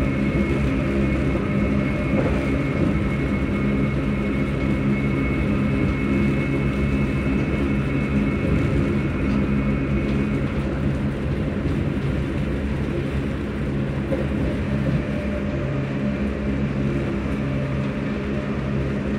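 Electric train's traction motors and VVVF inverter cooling fans humming steadily as the train runs. A high-pitched whine over the low hum fades away about halfway through.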